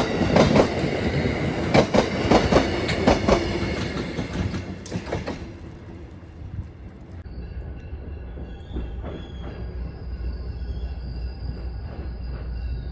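Amtrak passenger train passing close, its wheels clacking sharply over rail joints as the coaches roll by, fading away as the last car goes past about five seconds in. After that comes a quieter steady low rumble with faint thin high-pitched tones, from a commuter train approaching in the distance.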